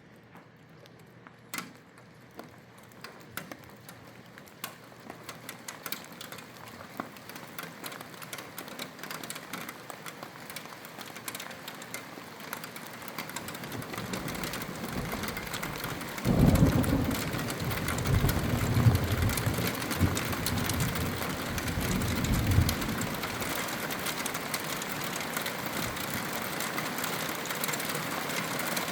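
Rain beginning with scattered drops that grow denser into a steady downpour. About halfway through, a low rumble of thunder rolls for several seconds.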